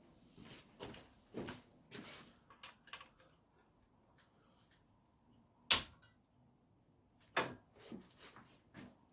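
Workbench handling noises from motorcycle fork parts and tools: scattered small knocks and taps, a sharp loud click near the middle, and a second click about a second and a half later.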